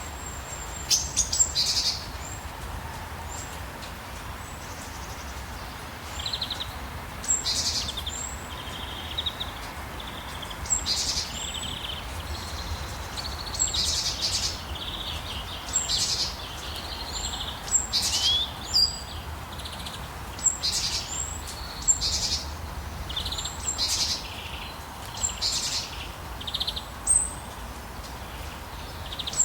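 Birds giving short, high chirps and whistles in clusters every second or two, over a steady hiss of rain and a low rumble.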